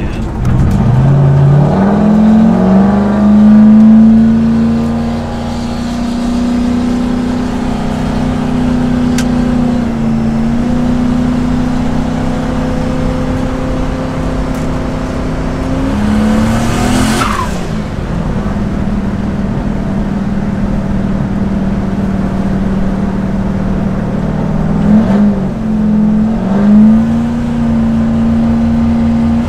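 Turbocharged 5.3-litre LS V8 in a 1968 Pontiac GTO, heard from inside the cabin while driving. The engine revs up over the first couple of seconds, then runs at steady revs. About halfway the revs dip and a high whistle falls away before the engine pulls again, and there are two more brief dips and rises near the end.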